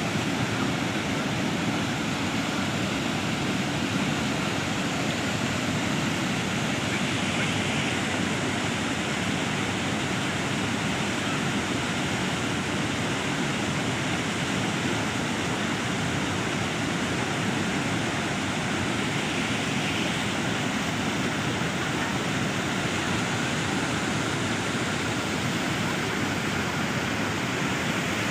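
Floodwater pouring over a bridge, a steady rush of fast-flowing water with no break or change.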